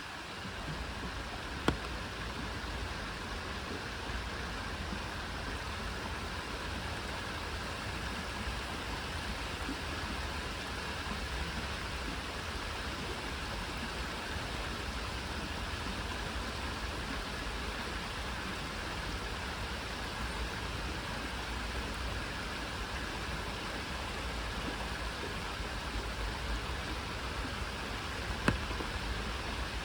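Steady rainfall, an even hiss of rain, with two sharp ticks: one about two seconds in and one near the end.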